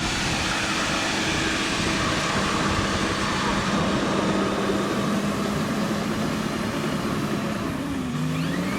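A Cat D6H bulldozer's diesel engine runs steadily under work. Near the end its note dips briefly and then climbs back.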